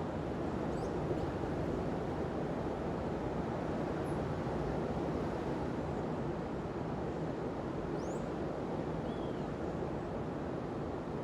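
Steady rushing of ocean surf breaking on a beach, with no single wave standing out. A few faint, short, high bird chirps sound over it, two of them rising in pitch.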